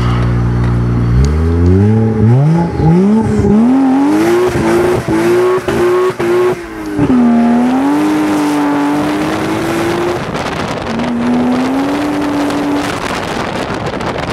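Toyota 1JZ-GTE twin-turbo inline-six in a BMW E46 accelerating hard, heard from inside the cabin: the revs climb in quick steps through the first few seconds, hold high with a few brief cut-outs, drop at about seven seconds and pull up again.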